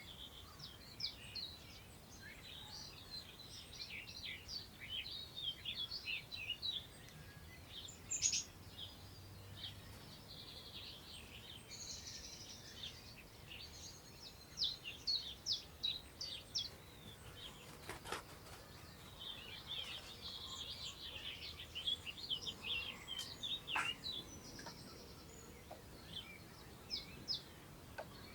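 Several songbirds singing and calling at once, with a dense run of quick chirps and trills, over a soft low rush of wind through long grass.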